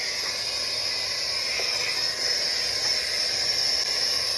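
A steady high-pitched hiss.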